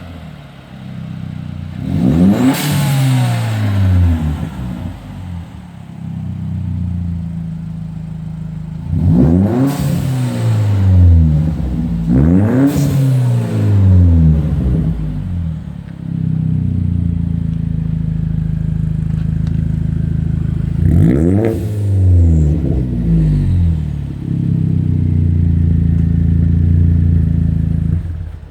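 Car engine revved through an aftermarket 2.5-inch exhaust with a Magnaflow muffler: four quick throttle blips, each rising sharply and falling back, and two spells of several seconds held at raised revs, the second near the end.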